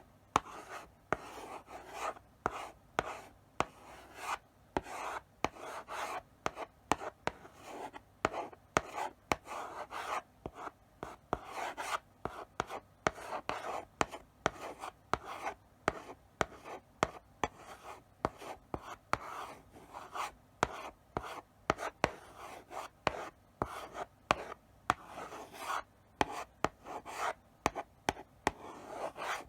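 Chalk writing slowly on a blackboard: short scratchy strokes one after another, broken by frequent sharp taps as the chalk meets the board.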